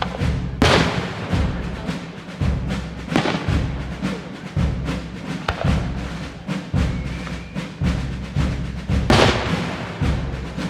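Aerial fireworks bursting: a string of sharp bangs and crackles, with two big booms that ring out, one about half a second in and one near the end. Music plays underneath.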